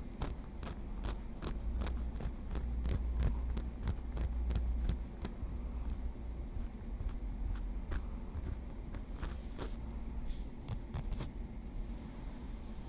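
Light tapping with a small wooden stick: a quick, uneven run of sharp little clicks, about three a second, that stops near the end.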